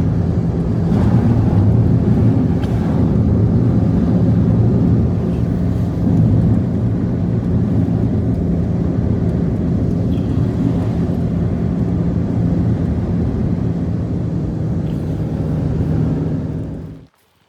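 A motor running steadily with a constant low hum, cutting off abruptly near the end.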